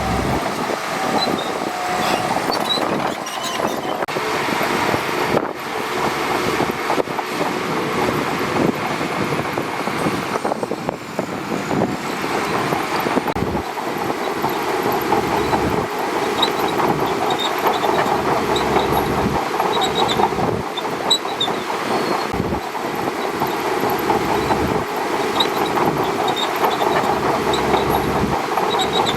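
Shantui DH17C2 crawler bulldozer working: a steady diesel engine note under a continuous clatter from its steel tracks.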